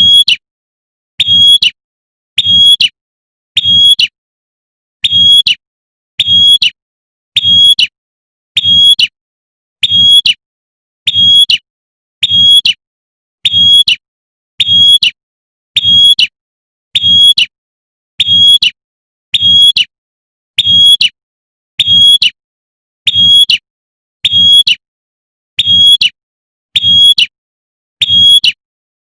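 Female prinia (prenjak) giving its sharp 'tembakan' call, a female calling to males. One short, high, clipped burst is repeated at a steady pace of about one every 1.2 seconds, with silence between.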